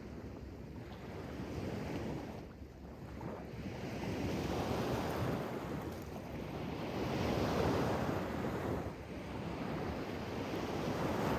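Sea waves washing in, the surf swelling and falling back every few seconds.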